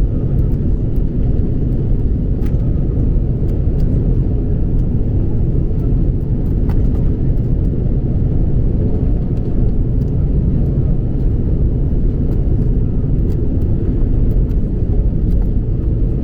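Steady low rumble of jet engine and airflow noise inside the cabin of an Airbus A330-200, even and unbroken throughout.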